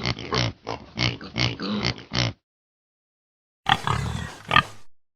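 Domestic pig grunting and oinking in a quick series of about eight short grunts. After a pause of about a second, a harsher, noisier sound with two sharp peaks follows near the end.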